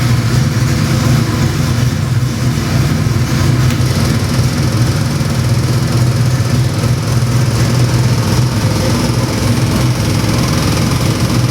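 Chevy 427 cubic-inch small-block stroker V8 with Holley Sniper fuel injection running at a steady idle, even and unchanging with no revs.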